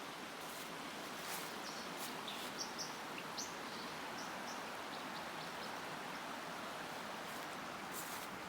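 Steady rushing of a mountain stream, with a small bird giving a quick run of short, high chirps near the middle.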